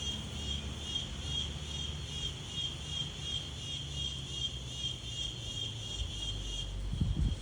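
A chorus of insects chirring in an even pulse, about two to three pulses a second, over a low steady rumble that cuts off near the end.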